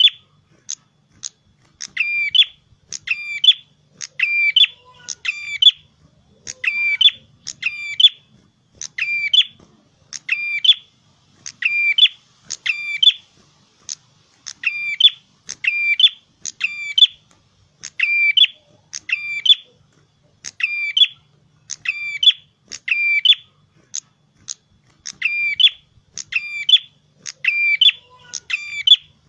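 Prenjak kepala merah, a small songbird, singing in full voice: a steady run of sharp, high chirping phrases, one to two a second, with a couple of brief pauses.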